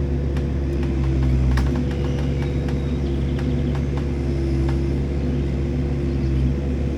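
A motor-vehicle engine running steadily at a constant speed, with scattered sharp clicks over it.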